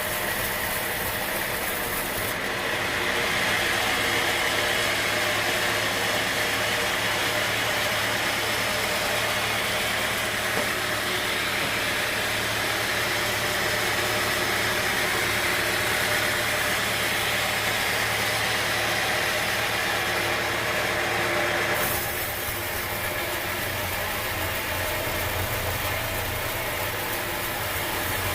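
Sawmill machinery running steadily: a low engine hum under a whirring hiss. The sound changes abruptly about two seconds in and again after about twenty seconds.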